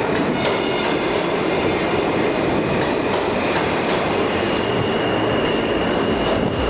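New York City subway train running through an underground station, its wheels rumbling and squealing on the rails. A thin steady high squeal comes in about four seconds in.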